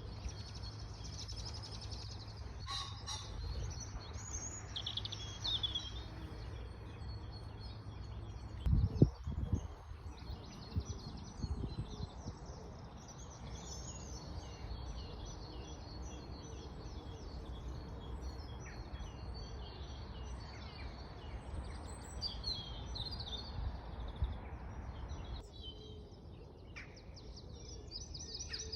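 Small songbirds chirping and trilling over a steady low background hum. About nine seconds in there is a brief loud low rumble.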